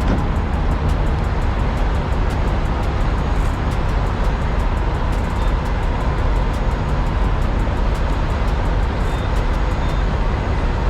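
Heavy-haul semi truck running down the road, a steady engine and road rumble heard from inside the cab.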